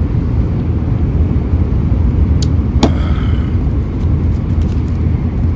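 Shinkansen carriage interior running noise: a steady low rumble from the moving train. There are two small sharp clicks about two and a half and three seconds in.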